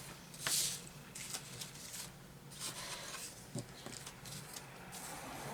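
Small painted wooden cutouts being handled and set down on a work surface: scattered light taps and clicks with brief rustles, and a soft knock about three and a half seconds in.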